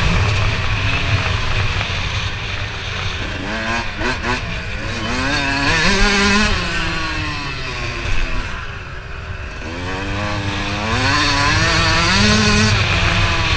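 Motocross bike engines revving, their pitch climbing in steps and dropping again as they accelerate and back off, twice, over a steady low engine rumble.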